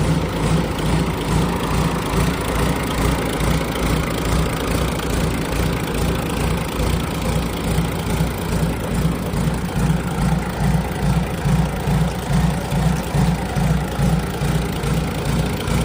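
Isuzu UM6BG1TC2 six-cylinder turbo-diesel marine engine idling steadily, with an even, low, rhythmic throb.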